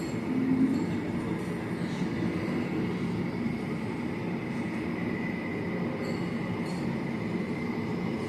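Aircraft engine noise: a steady rumble with a high whine held at one pitch.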